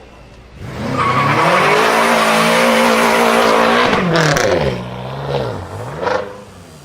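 Straight-piped BMW M5 F10's 4.4-litre twin-turbo V8 accelerating hard, its exhaust note climbing and then held loud for about three seconds. The revs then drop away in falling sweeps, with a sharp pop about six seconds in.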